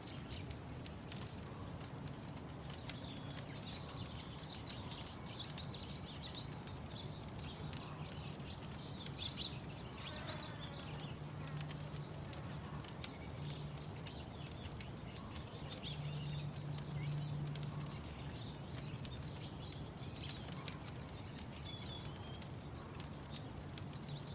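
Small birds chirping and singing over the irregular popping and crackling of a wood fire, with a steady low hum underneath that swells twice.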